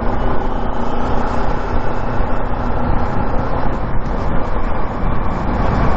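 Motorcycle on the move: steady engine and road noise with heavy wind rumble on the microphone.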